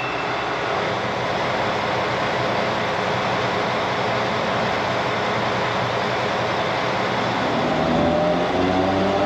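Narrow-gauge commuter train running at a station platform with a steady rumble. Nearly eight seconds in, a rising whine of several tones sets in as the train on the far track pulls away and gathers speed.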